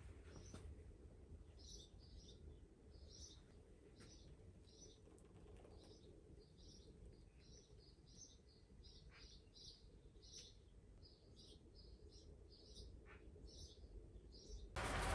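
Faint, repeated short chirps of a small bird, about two a second, over a low steady rumble. A loud rushing noise cuts in just before the end.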